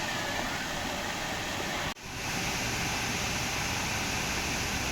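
Steady rush of a waterfall's cascading water. It breaks off for an instant about two seconds in, then resumes.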